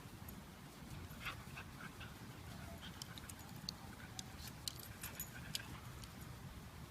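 Faint animal sounds with a few short, light clicks over a low, steady rumble.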